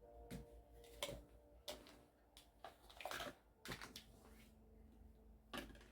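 Quiet room with faint, scattered clicks and rustles of small objects being handled and sorted.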